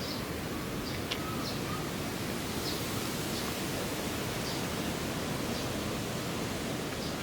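Steady outdoor background hiss, with faint short high chirps repeating about every half second to a second.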